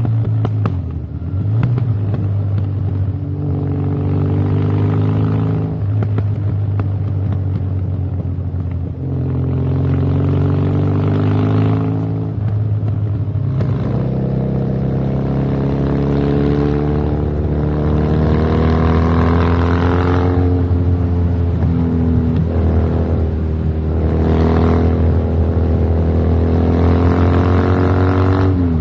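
Motorcycle engine with a loud aftermarket exhaust running and being revved, its pitch climbing and dropping back several times.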